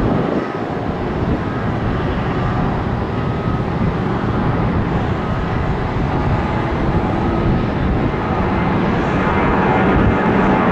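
Jet airliner's engines running loud and steady, a rushing roar with a faint whine through it, growing a little louder near the end.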